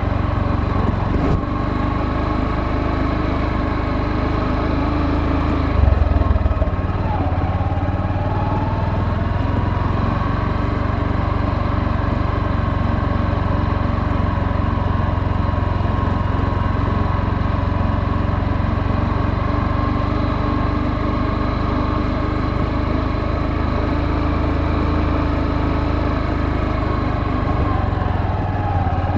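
Motorcycle engine running steadily while riding. About six seconds in there is a short loud burst, and just after it the engine note dips and climbs back; it dips again near the end.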